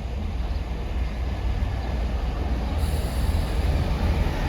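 Class 166 diesel multiple unit at the station, a steady low rumble.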